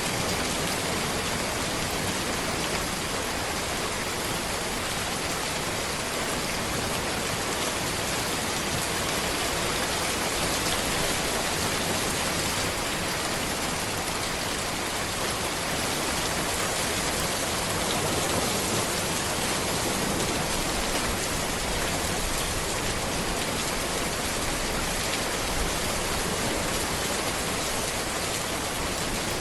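Steady rain falling on a road and trees, an even hiss with no change in level.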